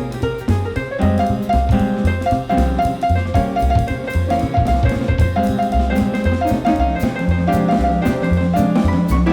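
A small jazz group playing live: walking upright bass, drum kit and piano (or vibraphone) comping under a melody line.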